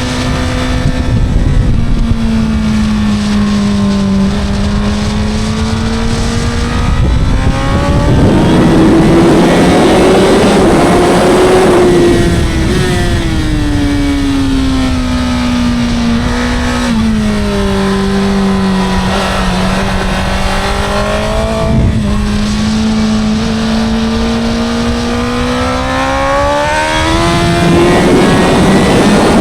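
Honda CBR1000RR's 999cc inline-four engine and exhaust heard on board at speed. The engine note climbs and falls several times as the bike accelerates and slows, with a couple of sudden steps in pitch at gear changes.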